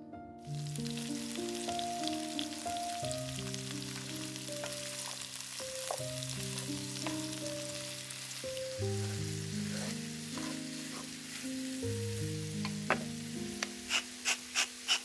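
Potatoes and onions sizzling as they fry in a cast-iron skillet, stirred with a wooden spatula. Near the end a salt mill is turned over the pan in quick, even clicks, about three a second.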